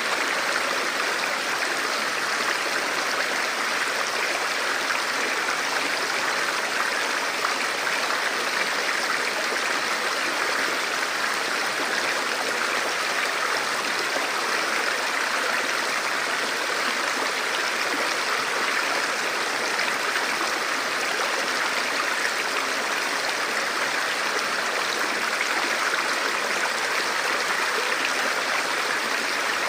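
A river or stream running steadily over rocks, a continuous rushing and babbling of water with no breaks.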